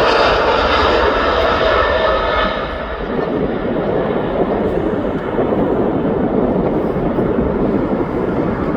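Jet airliner's engines passing close by, a loud rushing roar with a high whine that fades out after about two and a half seconds, leaving a steady lower rumble as the aircraft moves away.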